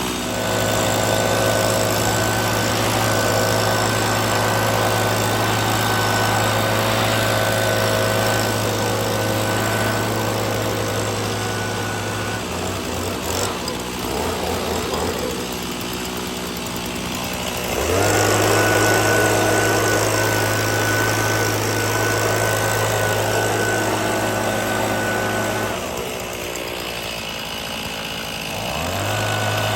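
Two-stroke chainsaw running at full throttle in an Alaskan chainsaw mill, ripping a board lengthwise from a poplar log. The engine eases off twice, a little under halfway and near the end, and revs back up each time.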